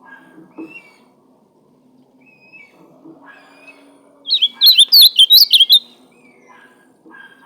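Ultramarine grosbeak (azulão) singing one loud, quick warbling phrase about four seconds in, with faint chirps before and after it.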